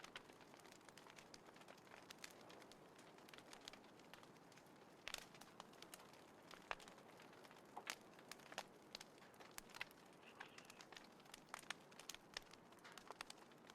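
Small wood fire crackling: irregular sharp pops and snaps, a few of them louder, over a faint steady hiss.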